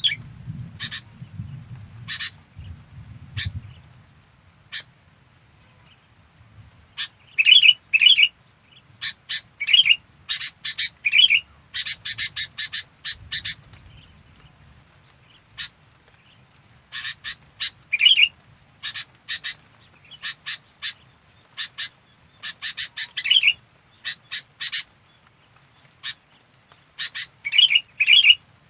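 Sooty-headed bulbul (kutilang) calling: clusters of short, sharp chirping notes separated by pauses of a second or more. The notes come thickest around the middle and near the end. A faint steady high-pitched whine runs underneath.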